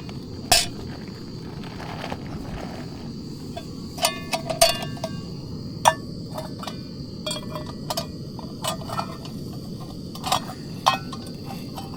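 Metal camp cookware clinking as he handles it while cooking: a dozen or so sharp, irregular clinks, some ringing briefly, over a steady low background noise.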